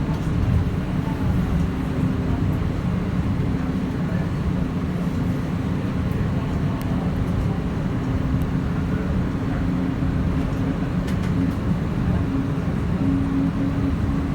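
İpek Böceği tram in motion: a steady low running rumble with a constant hum that gets louder near the end.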